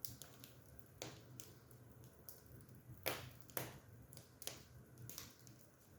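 Wood fire crackling in an open fireplace: faint, irregular sharp pops and snaps, a few louder ones about halfway through.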